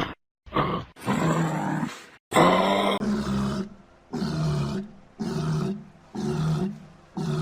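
An animal calling over and over. The calls are pitched and repeat about once a second through the latter part, after a few abruptly cut-off calls at the start.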